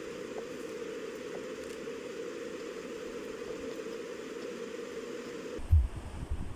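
A steady low hum with hiss that cuts off suddenly near the end. It is replaced by a loud bump and gusts of wind buffeting the microphone.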